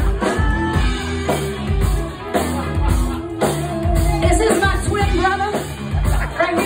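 Live funk band playing, with a repeating bass line, a steady kick-drum beat and singing over the top.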